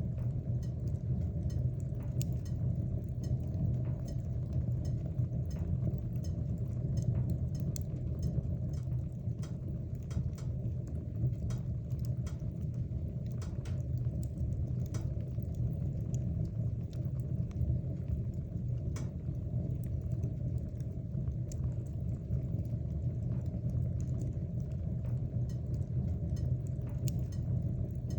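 Wood fire burning in a fireplace: a steady low rumble of flame, with scattered crackles and pops from the burning wood.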